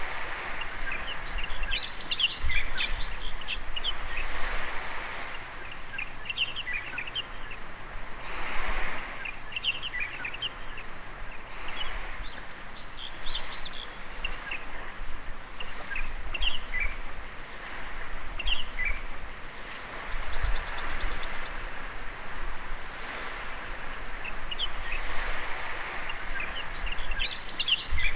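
Small waves washing onto a beach in slow swells, with many birds chirping throughout and a quick run of high, short notes about twenty seconds in.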